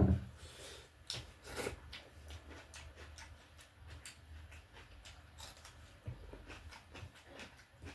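A person eating close to the microphone: chewing with many small, irregular mouth clicks, after a low knock at the very start.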